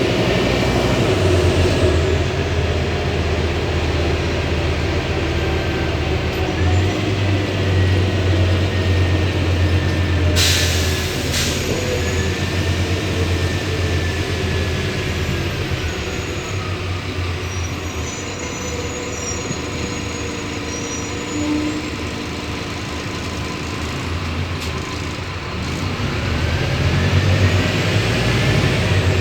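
Scania city bus running under way, its low engine drone rising and falling with the revs, with a whine gliding up and down above it. A short hiss cuts in about ten seconds in.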